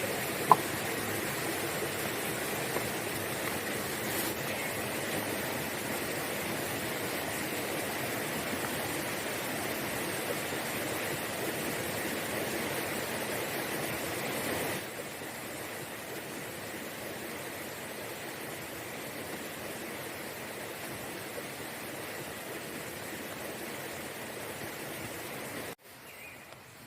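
Steady, even rushing noise like running water, with one sharp click about half a second in. The noise steps down in level about halfway through and cuts off abruptly just before the end.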